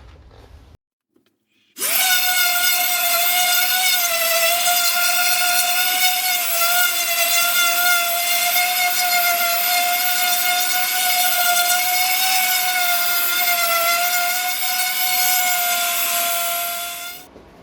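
Electric power tool running at high speed: a steady, high-pitched motor whine that starts about two seconds in and winds down just before the end.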